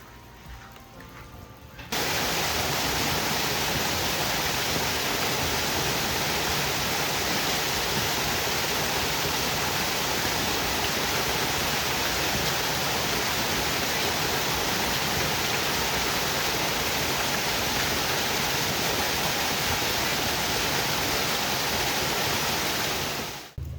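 Heavy rain pouring down: a steady, even rush that starts abruptly about two seconds in and cuts off just before the end.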